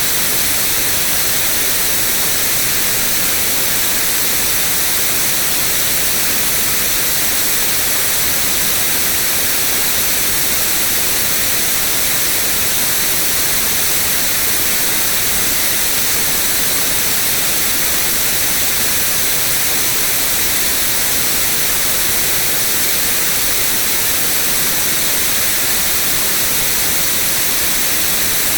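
White noise: a loud, steady, unchanging hiss, brightest in the high end.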